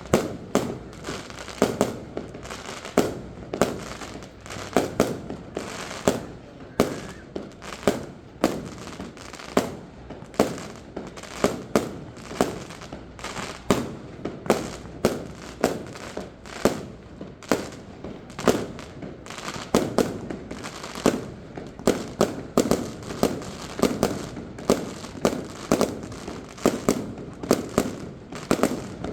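Aerial fireworks shells bursting in a steady string of loud bangs, more than one a second, each trailing off briefly.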